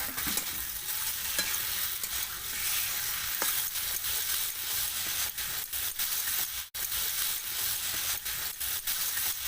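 Spice pastes, onion and potato sizzling in hot oil in a kadai while a spatula stirs and scrapes the pan, with a steady hiss and frequent short scraping ticks. The sound cuts out for an instant about two-thirds through.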